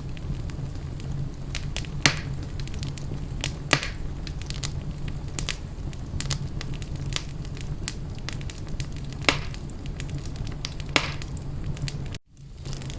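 Wood fire in a fireplace crackling steadily, with many small sharp crackles and a few louder pops over a low, even rumble. The sound drops out for an instant near the end, then comes back.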